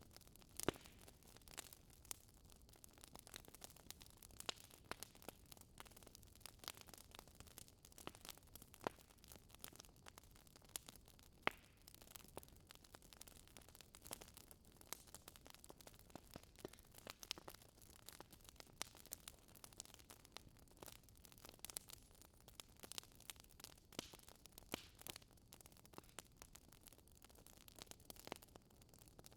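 Wood fire crackling in a fireplace: irregular small snaps and pops over a faint hiss, with a couple of sharper pops standing out.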